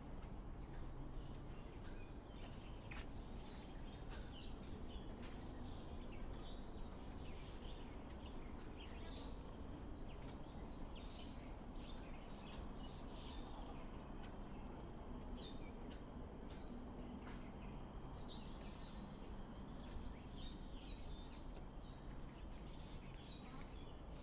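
Small birds chirping in short, repeated calls scattered throughout, over a steady low outdoor background noise.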